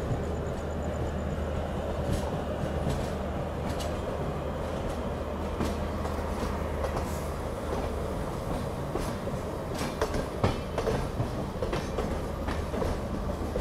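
Passenger train running slowly out of a station, heard from a coach doorway: a steady running noise with wheels clicking over rail joints and points. The clicks come thicker from about ten seconds in.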